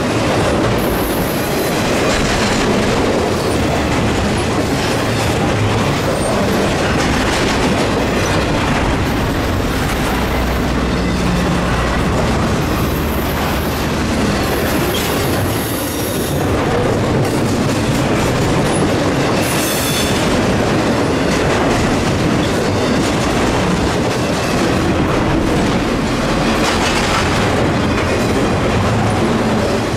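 A train rolling past close by, its wheels rumbling and clacking steadily over the rails, with a few brief high-pitched wheel squeals.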